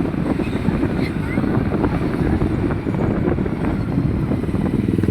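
A vehicle engine running steadily with a fast, even pulsing rumble, and wind buffeting the microphone.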